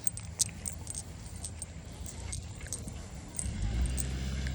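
A vehicle's engine running close by, a steady low hum that grows louder about three and a half seconds in, with scattered light clicks over it.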